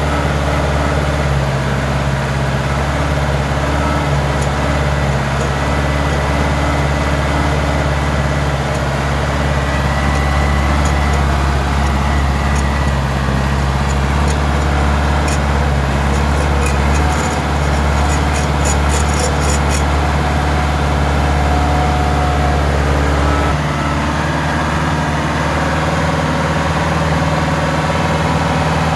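GAZ-66 truck engine running steadily at a low, even pace, its note changing slightly about 23 seconds in. A run of faint, quick ticks comes through between about 15 and 20 seconds.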